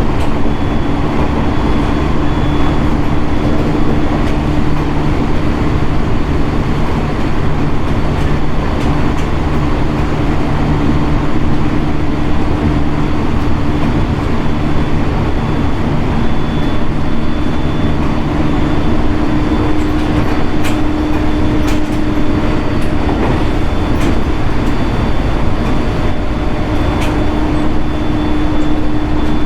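Inside a JR East 701 series 1000 subseries electric train running steadily at speed: continuous rolling noise with a steady hum, and a few sharp clicks in the last third.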